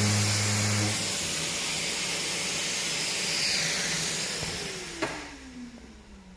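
Power sander running over body filler on a car panel with a steady hiss, then switched off about four seconds in and winding down in a falling whine, with a click as it stops.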